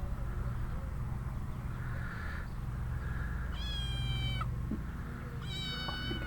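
Chartreux cat meowing twice, each meow under a second long, over a steady low rumble.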